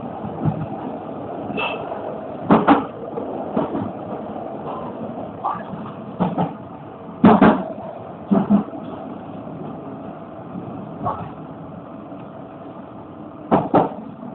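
Meitetsu 6500 series electric train running into its terminus, heard from inside the car: a steady running noise with a faint motor tone, and the wheels knocking over rail joints several times, often in quick pairs.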